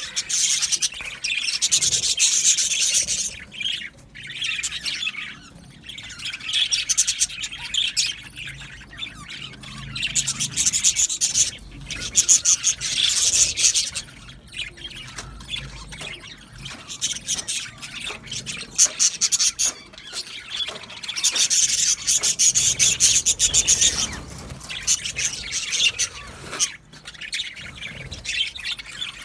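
A flock of budgerigars chattering and warbling, several birds at once, in bouts of a few seconds with short lulls between them.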